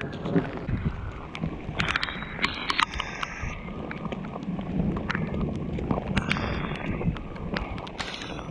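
Footsteps splashing and squelching through water on a waterlogged hiking trail, with irregular sharp clicks and wind on the microphone.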